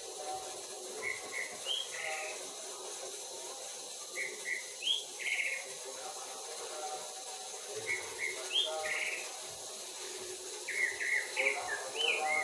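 A songbird singing the same short phrase four times, about every three and a half seconds: two quick chirps, a higher rising note, then a buzzy note.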